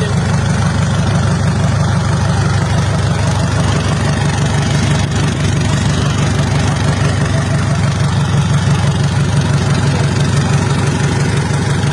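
Japanese 3500cc engine idling steadily on a floor test, running out of the vehicle on the ground.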